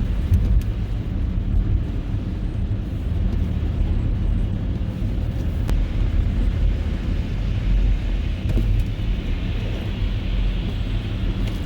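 Car driving along a snowy road: a steady low rumble of engine and tyres, with a few faint ticks.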